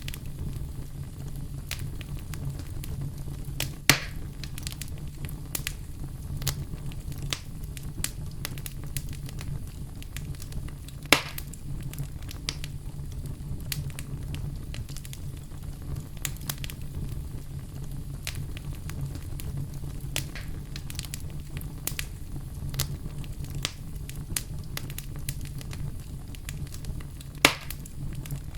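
Campfire burning with a steady low rumble and constant scattered crackling of the wood, with three louder pops at about 4, 11 and 27 seconds.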